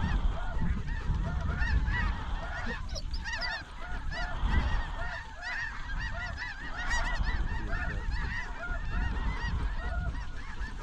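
A large flock of snow geese calling at once: a dense chorus of short, high, overlapping honks.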